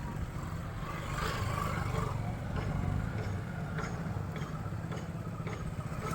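Car engine running at low speed while the car is manoeuvred: a steady low hum.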